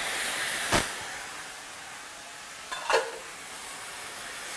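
Diced tomatoes sizzling in hot oil and spices in a stainless steel sauté pan: a steady frying hiss that eases a little after about a second. Two short knocks, about a second in and near three seconds.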